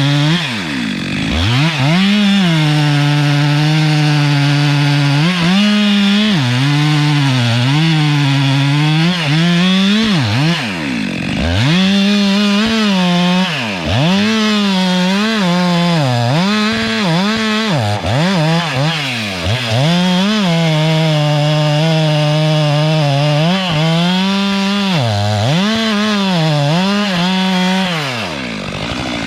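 Two-stroke chainsaw running at high revs under cutting load, its engine speed dipping and recovering again and again. Several times it falls off sharply before winding back up, and near the end the revs drop away.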